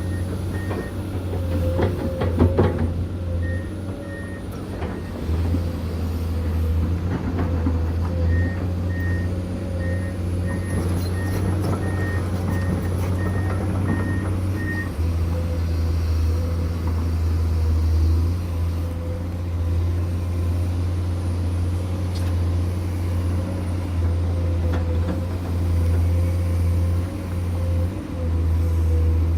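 Heavy diesel construction machinery running steadily with a deep engine drone, while a backup alarm beeps at about two beeps a second in short runs, the longest in the middle. A few sharp clanks come about two seconds in.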